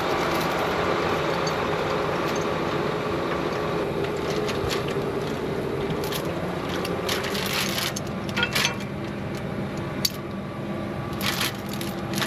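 A tractor engine runs steadily, with scattered clicks and knocks in the second half.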